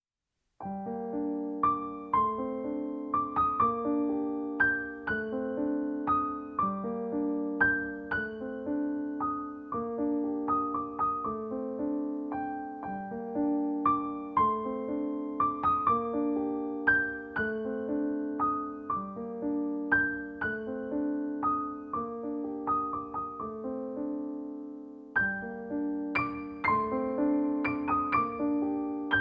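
Background piano music: a melody of struck notes over held low chords, starting about half a second in.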